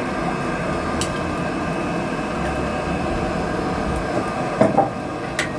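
A blacksmith's forge fire under a steady air blast, blowing and rumbling while the iron heats in it, with a few sharp clicks and a brief louder knock near the end.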